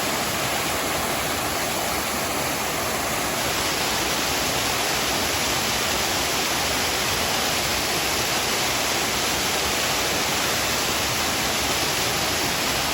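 Steady rush of water from a mountain stream cascading over rocks, getting a little brighter and hissier about three seconds in.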